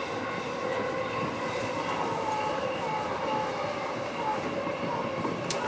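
Electric commuter train of the JR Keihin-Tohoku/Negishi Line running between stations, heard from inside the carriage: a steady rumble of wheels on rail with a held whine over it. A single sharp click comes near the end.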